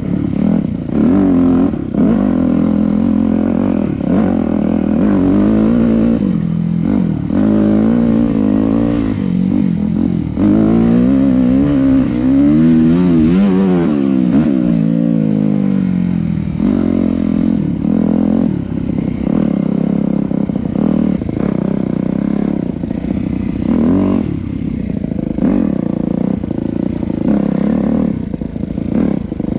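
Yamaha YZ250F's four-stroke single-cylinder engine on the move, revving up and falling back again and again as the throttle and gears change, with the pitch swinging fastest about halfway through. Some clatter runs under the engine.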